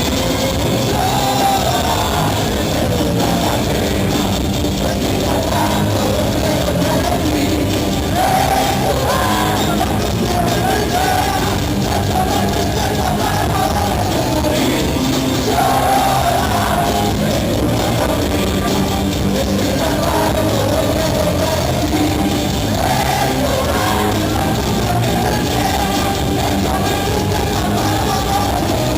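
Heavy rock song by a Spanish folk-metal band, with a lead voice singing a wavering melody over a full band of guitars, bass and drums, loud and steady throughout.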